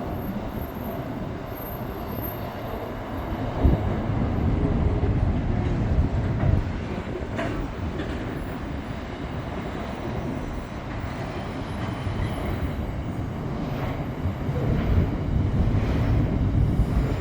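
The Ghan passenger train rolling past, a steady low rumble of wheels on the track with occasional sharp clacks.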